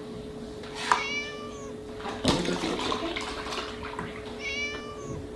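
Kitten meowing twice, once about a second in and again near the end, with a sharp knock a little over two seconds in and milk splashing as it pours from a tipped carton into a plastic tub.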